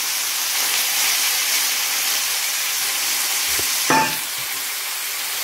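Chicken and chopped tomato sizzling in coconut oil in a frying pan, stirred with a spoon at first; a steady hiss, with a brief knock about four seconds in.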